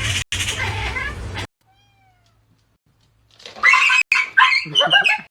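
A domestic cat meowing loudly several times in quick succession in the second half, after a sudden drop to near silence. Before that drop, a short stretch of pitched animal sound runs over a low hum.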